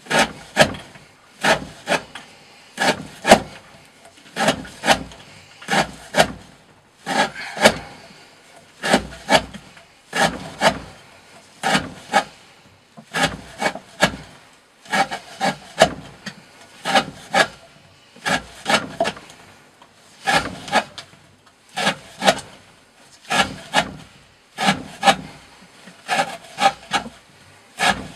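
Knife with a D2 steel blade slicing through 20 mm rope again and again in short rasping cuts, the strokes coming in quick groups about every second and a half.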